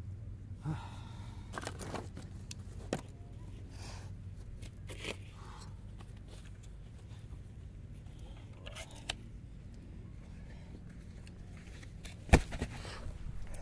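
Firewood being chopped and handled: scattered knocks and scrapes of wood, with one sharp strike a little before the end, over a steady low hum.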